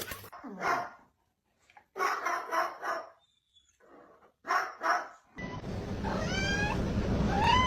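A dog barking in short bursts: a single bark, then a quick run of about four, then two more. After a cut, a cat meows twice over a steady background hiss.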